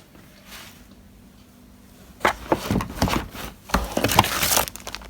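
Lawnmower parts and cardboard packaging being handled during unboxing: after a quiet start, about three seconds of rustling with a quick run of knocks and cracks, beginning about two seconds in.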